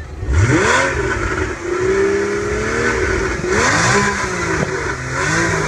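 Car engine revved hard several times in short succession, its pitch climbing quickly, holding high for about a second, then falling away before the next rev.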